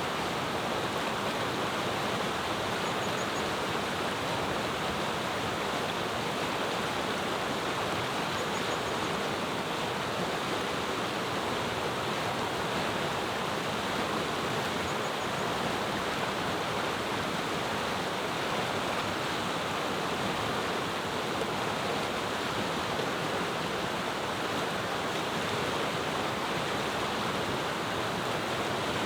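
Mountain river flowing: a steady, even rush of water, with faint high bird chirps three times in the first half.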